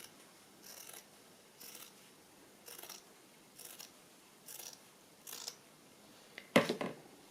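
Scissors cutting through cotton fabric in a series of crisp snips, about one a second, seven in all. A louder clatter comes near the end.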